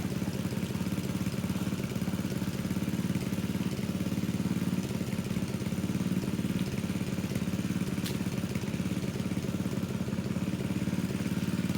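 Engine of a water pump running steadily at an even speed, pumping a pond down.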